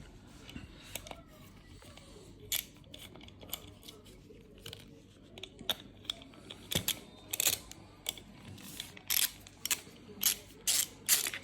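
Irregular small clicks and rattles of a plastic diesel tuning box being handled and opened to check its power setting switch, sparse at first and coming in quick clusters from about halfway.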